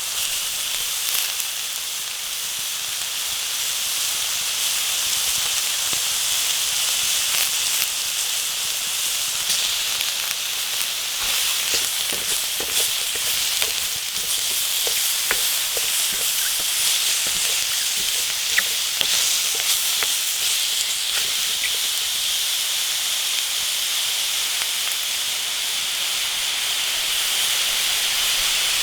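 Food sizzling in a pan over a wood fire: a steady hiss with scattered small crackles and pops.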